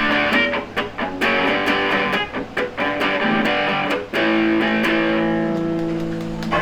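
Rock electric guitar playing a choppy riff, its notes cut off short with brief gaps. About four seconds in it strikes a chord and lets it ring, fading slightly.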